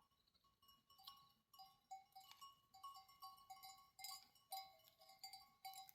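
Faint, irregular clinking of bells worn by a grazing flock of sheep, many small dings overlapping from about a second in.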